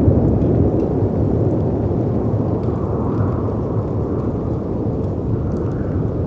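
Steady low rumble of howling wind and sea surf against cliffs, swelling a little twice, with faint crackles and pops from a fireplace on top.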